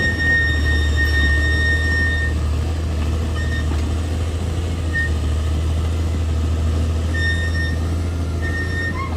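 Bulldozer's diesel engine running under a steady low drone, with intermittent high-pitched squeals of uneven length: a long one at the start, short ones in the middle, and more near the end.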